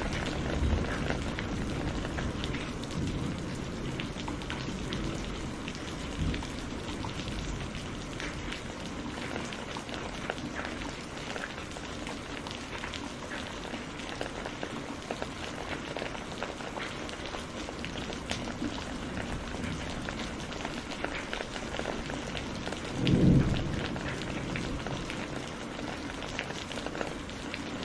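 Steady heavy rain with thunder rumbling low during the first several seconds, and one short, loud thunder boom about four-fifths of the way through.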